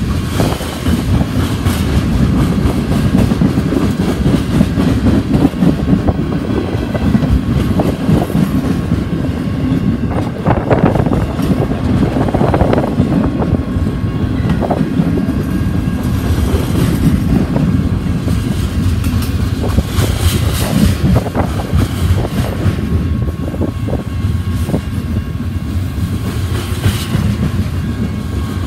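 Freight cars (covered hoppers and tank cars) rolling past close by: a loud, continuous rumble of steel wheels on the rails with clickety-clack as the wheels cross the rail joints.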